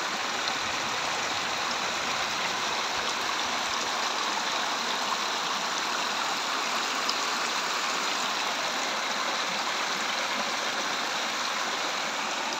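Steady rush of water, a constant even hiss with no single drops or breaks standing out.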